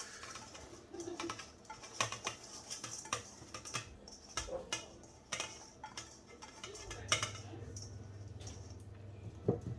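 Drained, soaked rice being tipped into a cooking pot, the grains pattering and clicking against it in irregular bursts with a few sharper knocks. A low steady hum comes in about seven seconds in.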